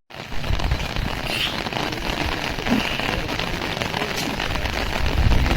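Steady patter of water, like rain falling on a surface, starting just after a sudden cut.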